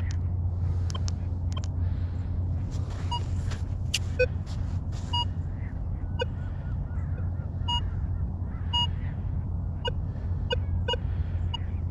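Vanquish 440 metal detector sounding a dozen or so short beeps at two or three different pitches as it is swept over the sand, its target tones, over a steady low rumble.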